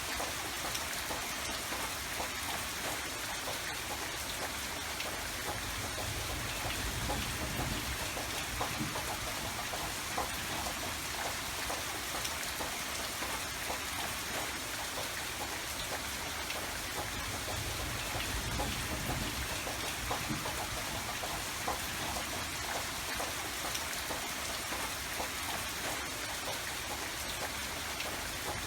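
Steady rain falling, with many small drops pattering. A low rumble swells and fades twice underneath.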